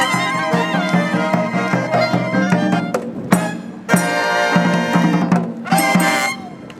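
Marching brass band with drums playing a lively tune, ending on a short held chord about six seconds in.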